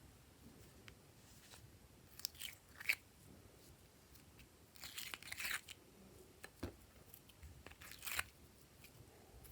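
Glossy slime being squeezed and worked by hand, giving faint crackly clicks and pops in a few short bursts: around two to three seconds in, about five seconds in, and near eight seconds.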